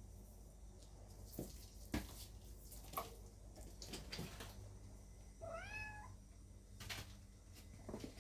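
A cat meows once about halfway through, a single call just under a second long that rises and then holds. A few faint clicks and taps come before and after it.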